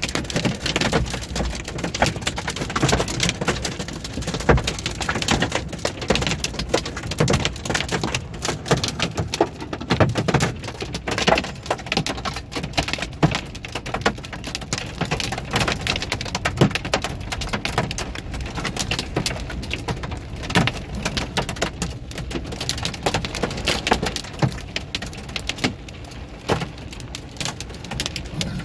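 Large hailstones pelting down in a heavy storm: a dense, irregular clatter of sharp impacts over the hiss of heavy rain.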